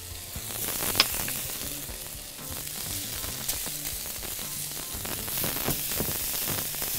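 Chicken pieces sizzling and frying in a hot pan, with a sharp clink of a utensil against the pan about a second in.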